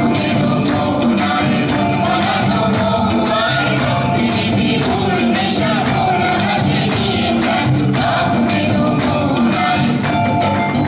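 Live folk music: singing over steady rhythmic percussion.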